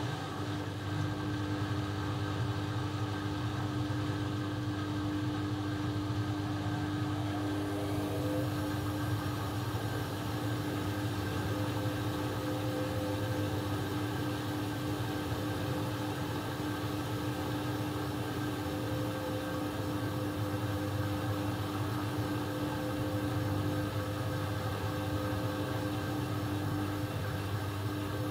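Laundry machine motor running steadily with a constant hum and a fixed tone; a higher rushing sound joins about eight seconds in.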